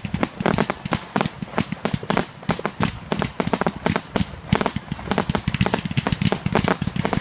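Rapid, irregular sharp cracks and pops of small firecrackers going off several times a second, over a background crowd din.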